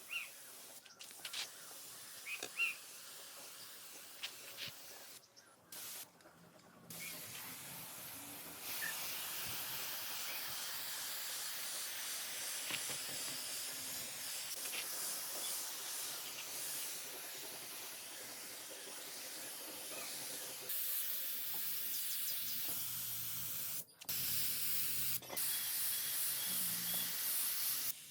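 Steady hissing spray, in several long stretches broken by sudden cuts, with a few sharp clicks in the first few seconds.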